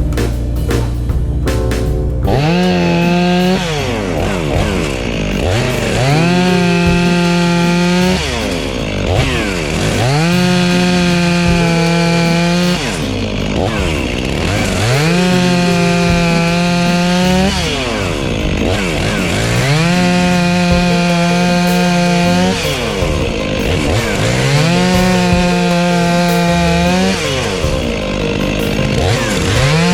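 Gasoline chainsaw cutting firewood: it revs up to full throttle, holds there through a cut for a couple of seconds, then falls back to idle, about once every four seconds for seven or eight cuts. Background music plays before the saw starts, about two seconds in.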